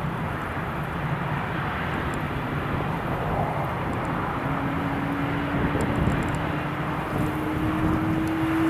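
Jet airliner engine noise, a steady rush with a faint hum that creeps slowly up in pitch from about halfway through.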